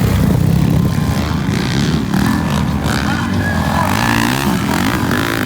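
Motocross dirt-bike engines revving, their pitch rising and falling as the riders work the throttle.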